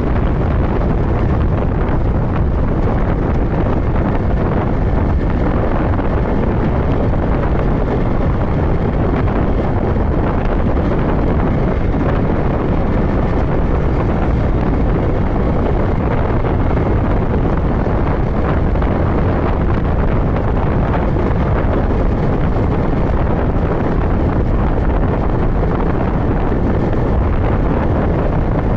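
Steady, loud wind rushing over the microphone of a motorcycle riding at highway speed, with engine and road noise underneath.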